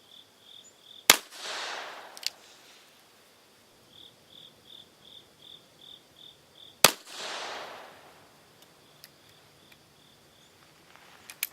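Two shots from a Smith & Wesson Victory Model .38 S&W revolver firing 200-grain cast-bullet handloads, about six seconds apart, each followed by an echo that dies away over about a second. Between the shots insects chirp faintly, about four chirps a second.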